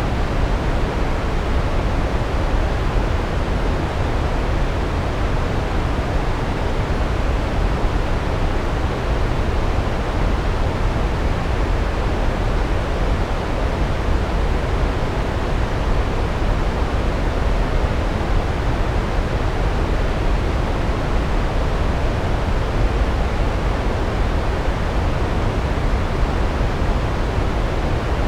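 Large waterfall: a steady roar of falling water, heaviest in the deep low end and even throughout, with no breaks or separate splashes.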